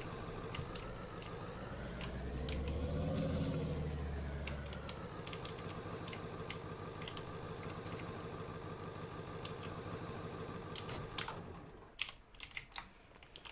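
Truck engine running, revving up briefly about three seconds in and settling back, then shut off near the end, with scattered sharp clicks over it.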